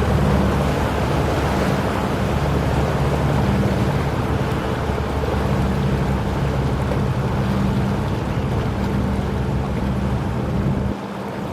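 Steady low drone of a ship's or boat's engine under wind buffeting the microphone and the wash of water. The lowest rumble drops away suddenly near the end.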